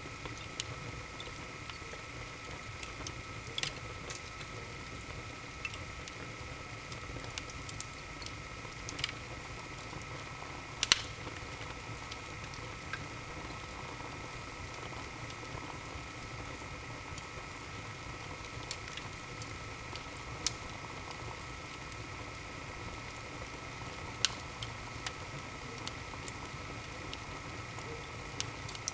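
Wood fire in a fireplace crackling, with irregular sharp pops and snaps over a steady low rustle; the loudest pop comes about eleven seconds in.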